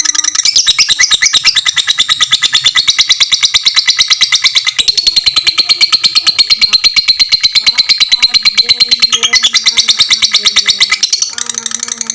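Lovebird singing a long ngekek, the continuous rapid chattering trill of a fighter lovebird: a fast, unbroken run of shrill notes that goes quieter near the end.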